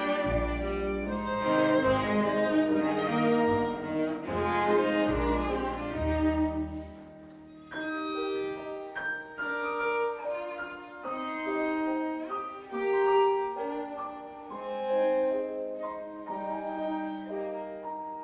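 Live chamber music from violin, cello and piano with a low bass line. The low bass notes drop out about seven seconds in, and the music turns to a quieter, lighter passage of separate notes.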